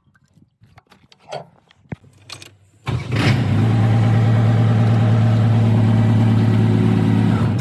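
Vehicle engine starting suddenly about three seconds in and running at a steady idle, then stopping just before the end. Faint clicks and knocks come before it.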